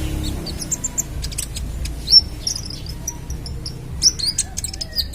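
Kolibri ninja (a sunbird) calling in a rapid, irregular run of short, sharp, high-pitched chirps and ticks, with a loud single note about two seconds in.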